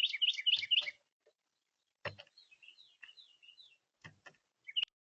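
Songbirds calling: a fast run of repeated whistled notes for about the first second, then a softer series of short twittering chirps, with a few sharp clicks around them.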